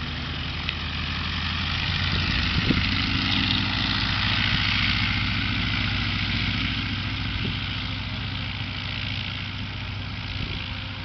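Steady low engine drone, with a higher rushing noise that swells a few seconds in and then fades.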